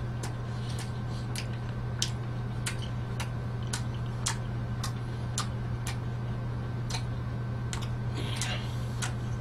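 Close-miked chewing of a mouthful of pizza with the mouth closed: a sharp, wet click with each chew, a little under two a second, over a steady low electrical hum.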